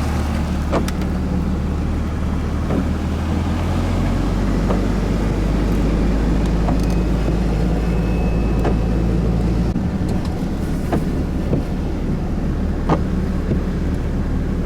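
A car's engine and tyre noise heard from inside while driving at low speed. The low engine drone shifts pitch twice, and a few light ticks and knocks are scattered through it.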